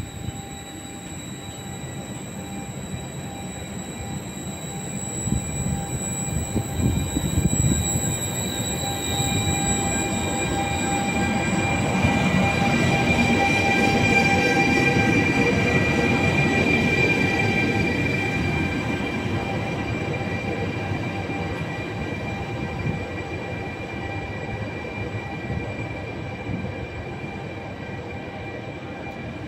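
A Trenord regional train of double-deck coaches hauled by an E464 electric locomotive rolls past along the platform: a rumble of wheels on rail with a steady high-pitched whine. It grows louder, peaks as the locomotive passes about halfway through, then slowly fades.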